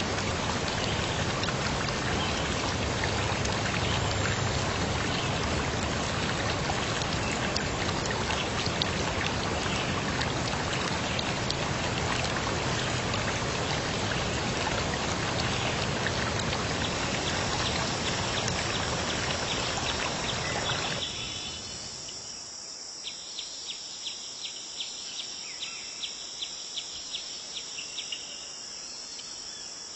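A steady rushing water sound, rain or running water, that cuts off abruptly about two-thirds of the way through. It gives way to insects chirping: a steady high buzz with short chirps about twice a second.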